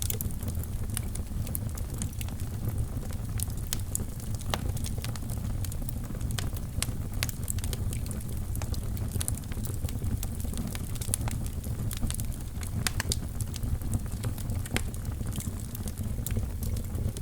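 Fire crackling in a fireplace: frequent irregular pops and crackles over a steady low rumble of the flames.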